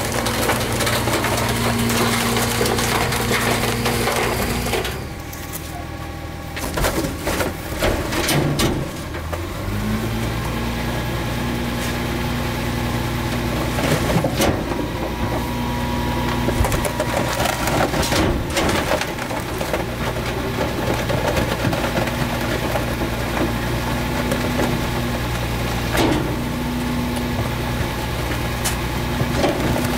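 Rear-loader garbage truck's packer crushing brush and bulky wood in the hopper, with wood cracking and splintering over the engine of the CNG-powered truck. About nine seconds in the engine revs up and holds a steady higher note, with scattered sharp cracks as the load is compacted.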